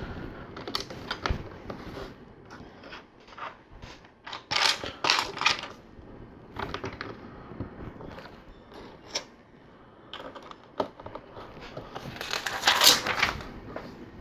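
Small plastic LEGO pieces clicking and clattering as they are handled and pressed together, with a few louder spells of rattling, one about five seconds in and one near the end.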